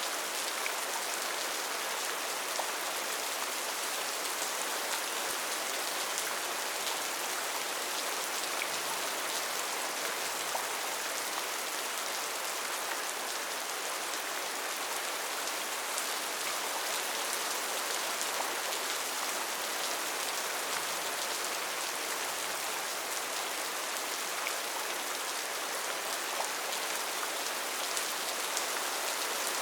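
Steady rain falling in a rainforest, an even hiss of many drops on foliage, with small individual drop ticks scattered through it.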